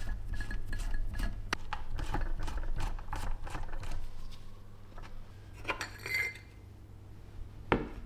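Small metal parts clinking and tapping against each other as they are handled. The clinks come quickly at first, then thin out. There is a ringing clink about six seconds in and a sharper knock near the end, over a low steady hum.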